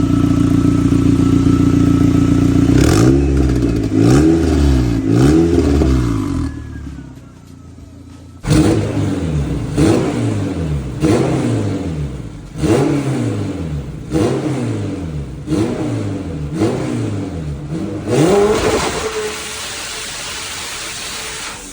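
Honda K-series engine in a Toyota MR2 running steadily, then revved in a long series of quick blips, each rising and falling in pitch, about one a second, with a short lull about a third of the way in. It settles back to a steady run near the end.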